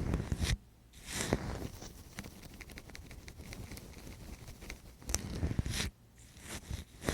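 Ear-cleaning ASMR: scraping and rubbing right against the microphone, a dense run of close crackles and scratches with two short pauses, about half a second in and about six seconds in.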